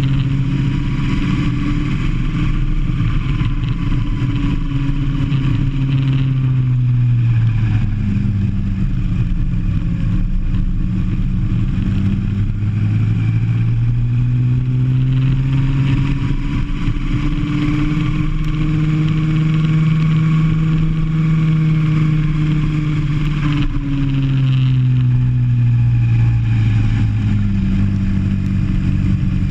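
Kart engine heard onboard at speed. Its pitch holds high, falls as the kart slows about a quarter of the way in and again near the end, and climbs back up in between as it accelerates.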